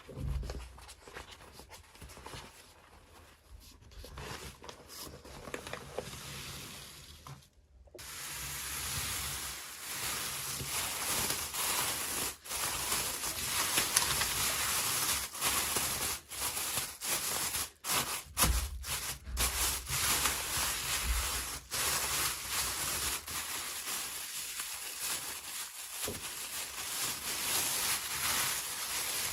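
Packaging being handled and opened with rustling, crinkling and tearing. It is faint at first and gets louder from about eight seconds in.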